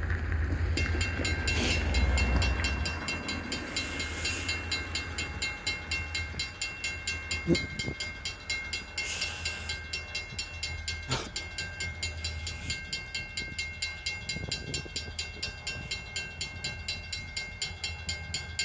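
Freight train of tank cars rolling past, with a low rumble for the first few seconds, then a steady, rapid clicking of wheels over the rails.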